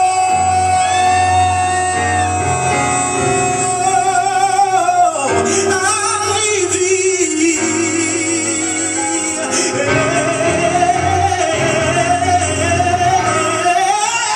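Recorded gospel music: a singer holds one long note for about five seconds, then sings a wavering, ornamented run over a sustained accompaniment.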